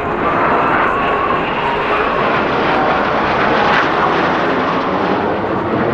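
Jet noise of BAE Systems Hawk T.65A jet trainers flying past, their Rolls-Royce Adour turbofans giving a loud, steady rushing sound with a faint whine.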